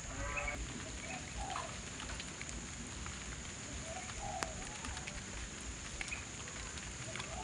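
A few short bird calls, scattered through several seconds, over a steady high thin tone and a low outdoor rumble.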